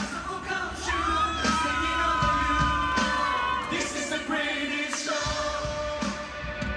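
Live pop song played loud by a band, with a singer holding a long high note that slides up about a second in, then a lower sustained note.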